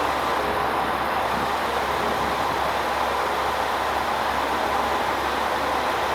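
JR Kyushu A-Train, a KiHa 185 diesel railcar, running with a steady, even noise that has no distinct clicks or pauses.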